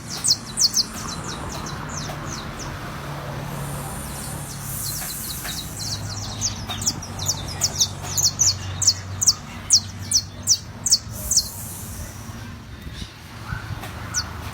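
Saffron finch giving warm-up calls: rapid series of sharp, high chirps, each a quick downward sweep, coming in a brief run at the start, a long run from about five to twelve seconds in, and once more near the end.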